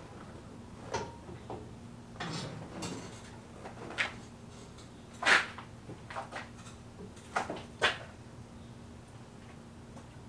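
A series of irregular knocks and clunks, the loudest about five seconds in, over a steady low electrical hum.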